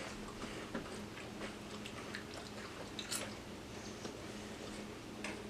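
People quietly crunching and chewing cheddar cheese crackers, with scattered short crunches.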